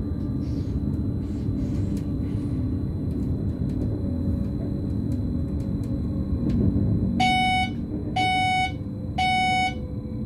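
BLS RABe 515 electric multiple unit running, a steady rumble of wheels and drive heard in the driver's cab. About seven seconds in, three short electronic beeps sound in the cab, each about half a second long and about a second apart.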